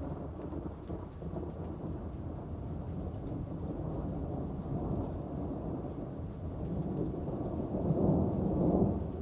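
Thunder rolling over steady rain, the rumble building and peaking near the end before easing off.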